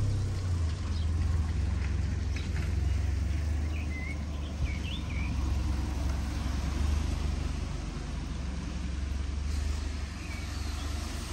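Rain ambience on a village walk: a steady hiss of rain over a low rumble that eases slightly near the end, with a few short bird chirps about four to five seconds in.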